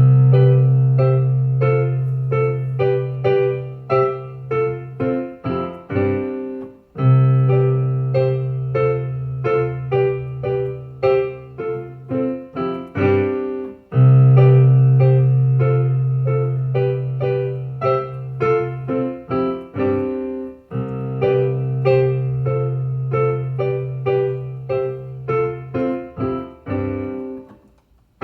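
Keyboard playing repeated short chords over a held low bass note, in four phrases of about seven seconds each.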